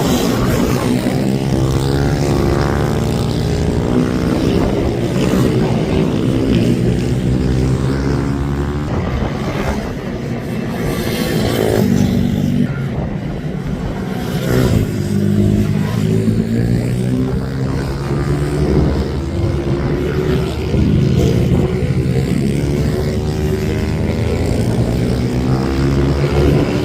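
Racing minibike engines running hard on track, several at once, their pitch rising and falling as they rev up and back off.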